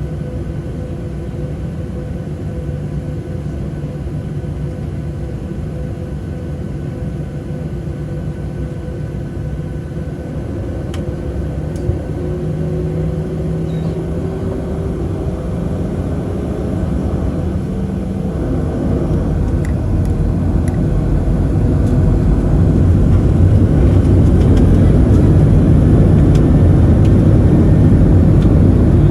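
Boeing 737-700's CFM56-7B jet engines heard from inside the cabin: a steady whine over a deep rumble that grows louder over about ten seconds and then holds, as the engines spool up for the takeoff roll.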